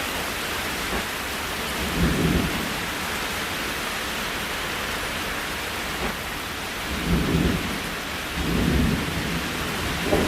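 Steady rain falling, with a few short low rumbles about two seconds in, near seven seconds and near the end.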